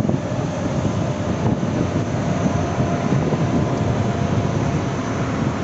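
Jet airliner engines, heard as a steady, even rumble with a faint high whine over it.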